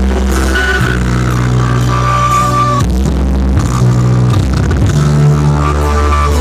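Loud electronic music with long, held bass notes and a melody over them, played through a large sound system being tested at full volume.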